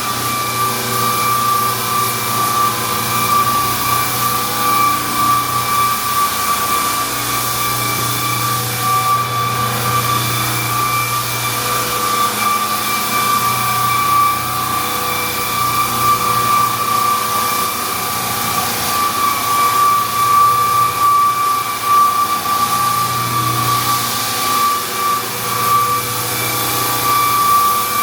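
Floor sander running steadily while sanding hardwood floors: a loud, even machine hum with a high whine.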